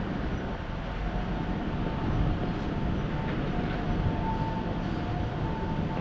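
Steady rumble of an electric train running past, with a faint, thin whine coming and going over it from about two seconds in.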